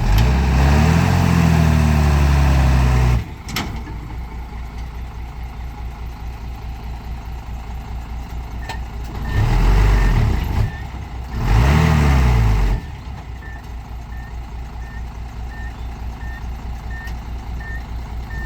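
Truck engine revving hard for about three seconds, dropping to a pulsing idle, then revving up and down twice more around the middle, as a truck stuck in a ditch tries to get out. Faint short high beeps repeat about twice a second near the end.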